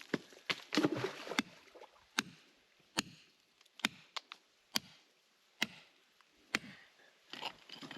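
Repeated sharp blows of a hand striking tool on a hard surface, evenly paced at a little under one per second.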